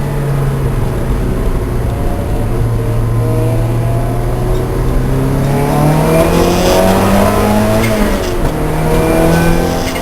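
Lancia Delta race car's engine under load on track. It holds steady revs for several seconds, then rises in pitch as the car accelerates. About eight seconds in the pitch drops sharply with an upshift, and the engine pulls on at lower revs.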